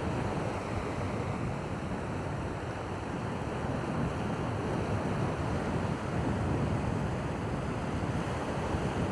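Steady rush of wind and surf along the shore, an even noise with no distinct events.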